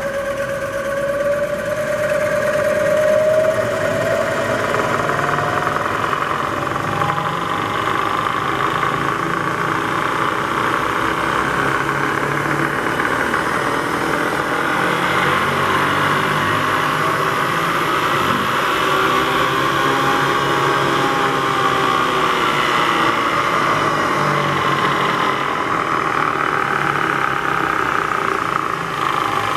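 Bridgeport EZTrak II CNC vertical mill's spindle running in high gear. It starts at once, and its whine rises in pitch over the first few seconds as it comes up to speed, then holds as a steady machine whine and hum.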